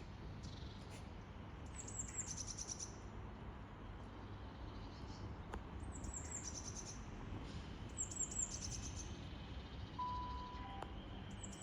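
A small songbird singing short, high chirping phrases, about four of them, each a quick run of notes ending in a trill, over a steady low background rumble. A single brief beep sounds about ten seconds in.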